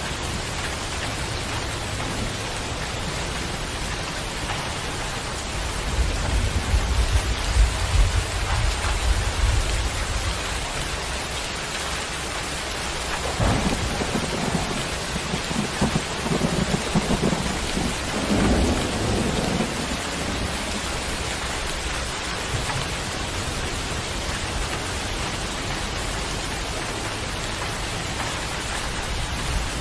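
Steady rain falling, with thunder rumbling twice: a low rumble about six seconds in, then a sharper onset and a longer rumble from about fourteen to twenty seconds.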